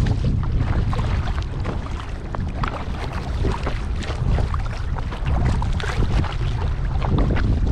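Water splashing and lapping around a moving kayak in short, irregular splashes, over a steady low rumble of wind buffeting the microphone.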